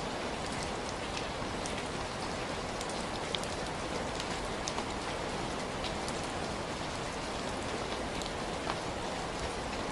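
Heavy rain falling steadily, a dense even hiss with individual drops pattering and ticking on a surface throughout.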